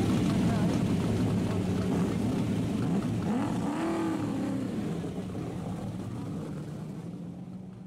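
Racing car engines running on a circuit. About halfway through, one car's engine note rises and then falls as it goes by, and the engine sound then slowly fades away.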